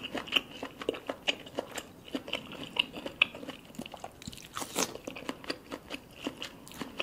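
Close-miked eating: biting and chewing sauce-covered lobster claw meat, a quick run of short mouth clicks.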